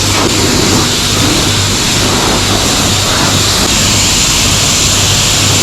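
Pressure washer spraying water over a motorcycle: a steady loud hiss of spray, with a low hum that comes and goes.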